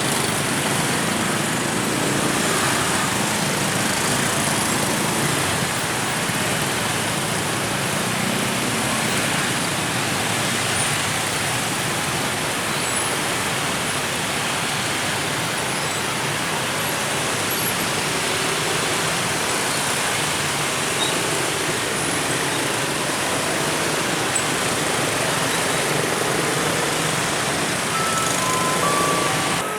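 Dense, slow-moving road traffic at a level crossing: a steady mix of motor vehicle engines and tyre noise. A few short high beeps sound near the end.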